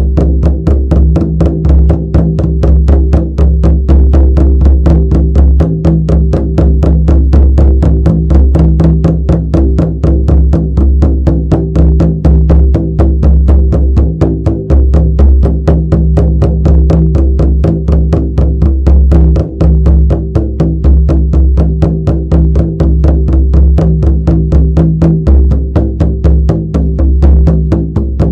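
Shamanic frame drum beaten in a fast, even, unbroken rhythm, its deep boom ringing on under the strikes.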